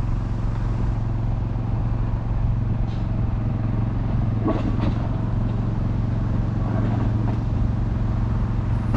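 Class 141 Pacer diesel railbus engine idling with a steady low hum, with a few faint knocks about halfway through.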